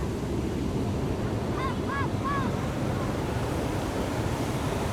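Pacific Ocean surf breaking and washing up the shore in a steady, even wash. About two seconds in, three short calls rise and fall in pitch.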